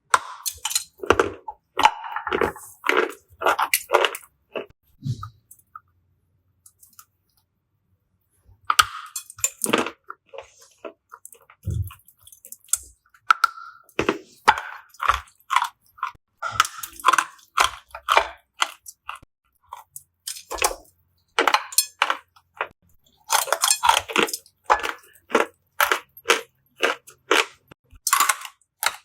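Close-up crunching and chewing of hard, dry chalky pieces, in rapid runs of sharp crackling bites. There is a quiet gap of about three seconds early on, after which the crunching resumes.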